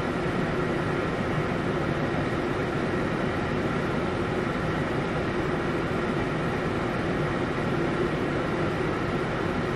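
Steady, unbroken rushing noise of a torrential downpour.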